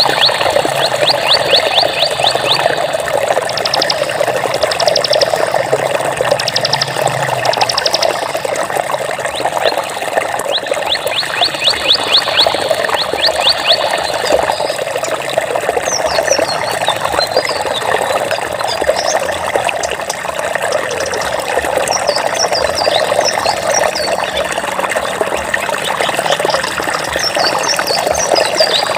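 Steady flowing water, a stream's constant rushing. Over it come high trills of rapid notes and short chirps from wild animals, most in the first half and again near the end.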